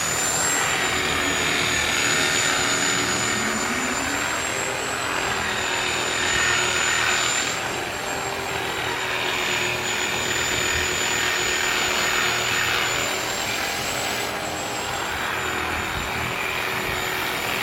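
Reciprocating saw running continuously with its blade cutting through lawn sod and the soil under it, a steady high whine over a rough buzzing that swells and eases a little as it works.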